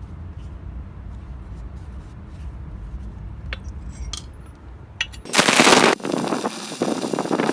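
A low rumble with a few light metallic clinks, then about five seconds in a loud, harsh grinding rush starts suddenly and surges: an angle-grinder-driven belt grinder working metal.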